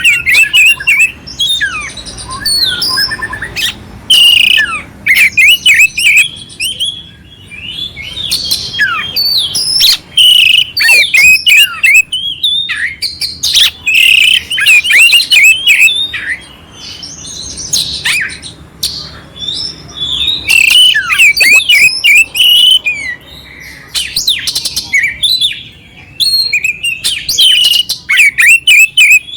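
Oriental magpie-robin (kacer) singing loudly. Fast, clear whistled phrases are mixed with harsh, rough notes, coming in bursts with short pauses between them.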